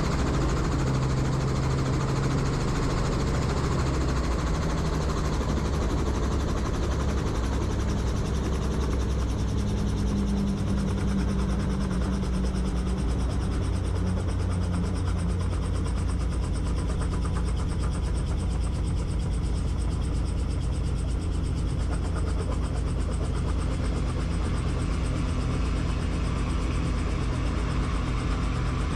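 Helicopter engine and rotor running steadily, heard from inside the cabin, with a fast, even blade pulse under a rushing noise.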